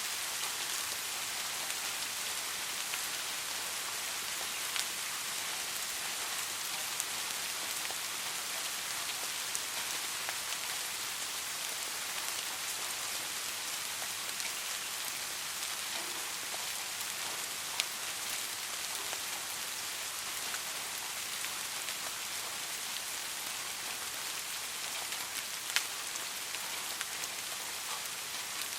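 Steady rain falling, a dense even hiss with a few louder individual drop ticks scattered through it.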